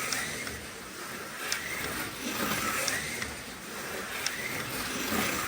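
A few light, sharp clicks of small plastic model cars being handled and set down, over a steady background hiss.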